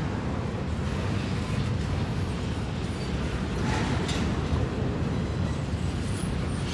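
Double-stack intermodal freight cars rolling slowly past, a steady low rumble of steel wheels on the rails. A brief harsher sound comes through about four seconds in.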